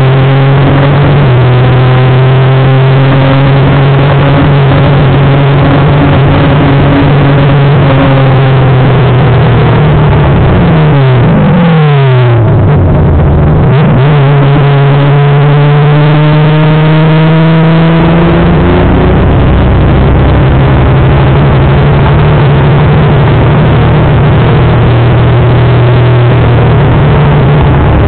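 Onboard sound of a Honda MC19 CBR250R's high-revving four-cylinder engine at racing speed, with heavy wind rush on the microphone. The revs fall sharply about eleven seconds in, then climb again in a series of rising sweeps broken by gear changes.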